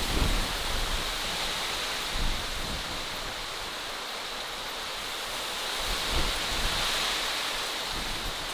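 Steady outdoor nature ambience: an even hiss with no music or voices, and a few brief low rumbles, about two seconds in and again near six seconds.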